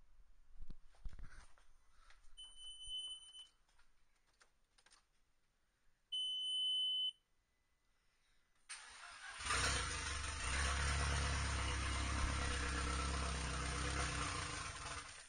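Two short electronic warning beeps, then the freshly rebuilt Audi S3's turbocharged four-cylinder engine cranks, starts and runs steadily for about six seconds before shutting off near the end.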